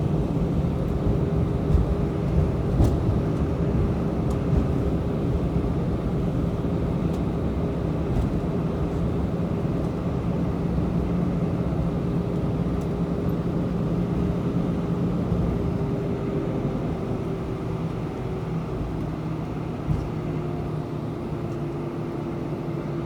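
Airbus A319 cabin noise after landing: a steady low rumble of engines and airframe with two steady hums. The hums shift slightly lower and the noise eases a little over the last several seconds as the aircraft slows.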